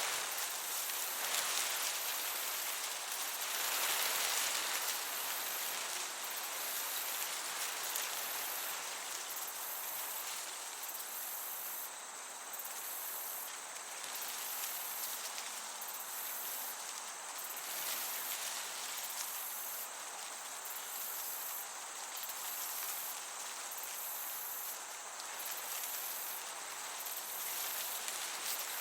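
Field crickets chirping in a steady high trill, over a soft breeze hiss that swells slightly a couple of times.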